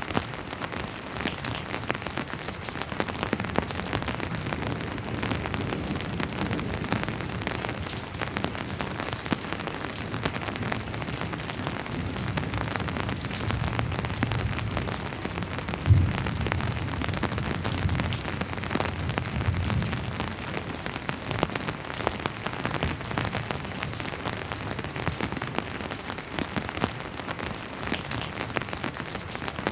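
Steady rain falling, with many individual drops ticking through the hiss. Around the middle a low distant rumble of thunder swells and fades, peaking about halfway through.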